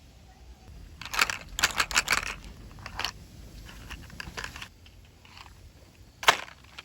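Handling noise: a quick run of crisp crackles and clicks about a second in, softer ones after, and one sharp click near the end.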